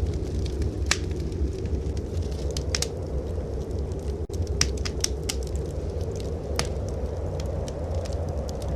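Fireplace fire crackling, with scattered sharp pops and snaps over a steady low rumble. The sound drops out for an instant about four seconds in.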